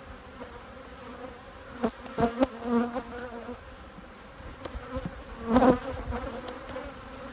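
Honeybees buzzing in a steady hum around an opened hive, with a few short scraping knocks from a hive tool working excess comb off a frame about two and five seconds in.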